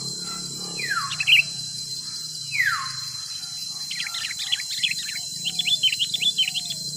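Forest birds calling: two long falling whistles, then a quick run of chirping notes from about four seconds in. Underneath is a steady high-pitched insect drone.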